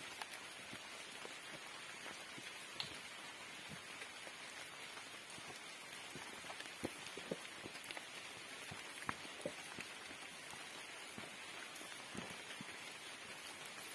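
Rain falling steadily, a constant hiss scattered with sharp ticks of single drops or knocks close by.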